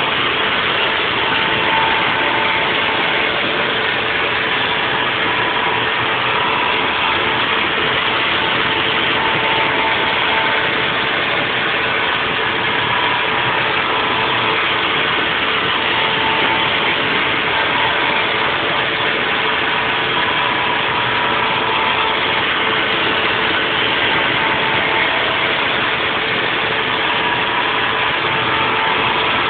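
Haas VF4 CNC vertical mill running a 3D milling cut: steady spindle and cutting noise with a constant tone, and a higher tone that comes and goes every few seconds as the tool moves.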